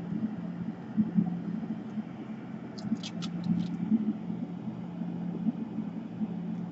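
Steady low hum with a short run of light clicks about three seconds in.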